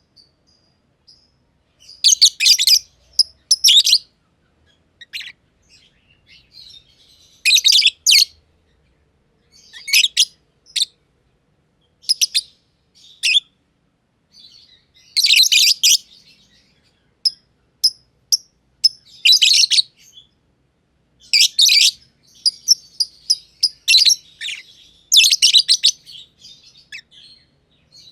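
Black-masked lovebirds (green and pied personata) chirping: bursts of rapid, shrill chirps about every one to two seconds, with brief pauses between.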